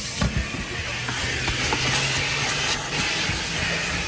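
Car wash vacuum running steadily: a continuous rushing hiss of suction over the motor's low, even hum, with a few small knocks.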